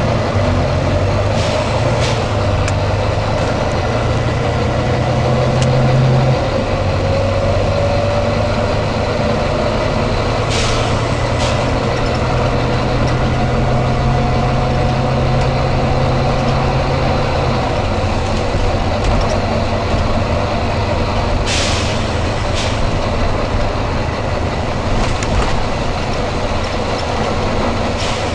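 Volvo B9TL double-decker bus's 9.4-litre six-cylinder diesel running, its note shifting a couple of times, with short sharp hisses of air from the air-brake system, mostly in pairs, several times.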